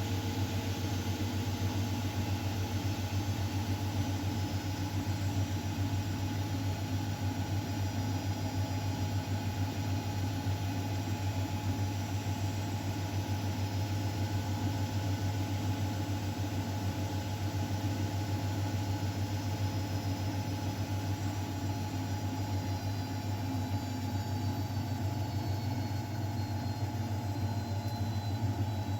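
Miele Novotronic W912 washing machine running steadily: a continuous motor and drum hum with a faint high whine that slowly drops in pitch.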